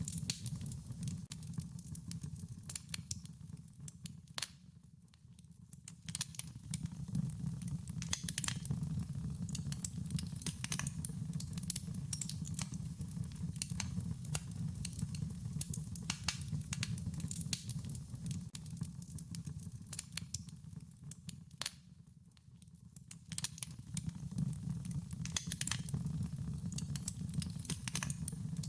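Wood fire crackling and popping in irregular sharp snaps over a steady low rumble. The crackle briefly dies down twice, about five seconds in and again near twenty-two seconds.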